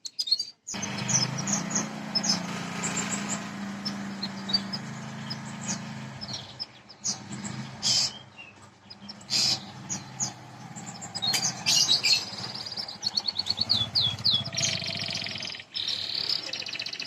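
Small songbirds chirping: many short, high chirps and quick trills, one after another, over a steady low background hum.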